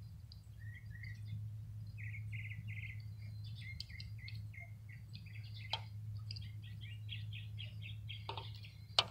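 A small bird chirping and twittering in quick runs of short, high notes, over a steady low hum. A few sharp clicks come late on, the loudest near the end.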